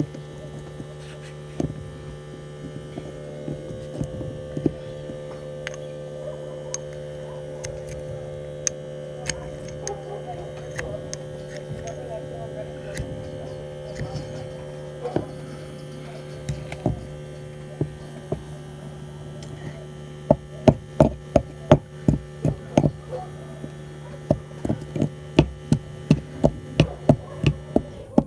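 Steady electrical hum throughout. In the second half comes a quick run of sharp knocks or taps, two or three a second.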